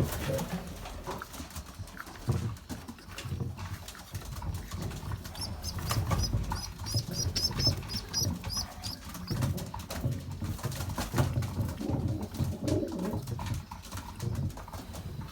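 Domestic racing pigeons cooing, low and repeated. About five seconds in comes a run of high, quick peeping chirps lasting a few seconds, typical of a squab begging while a parent feeds it.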